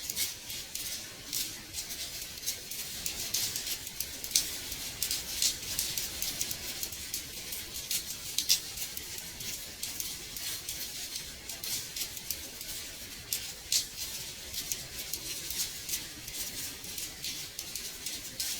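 Gentle rain on a window pane: a steady patter of many irregular, light drop ticks over a soft hiss, with an occasional louder tap.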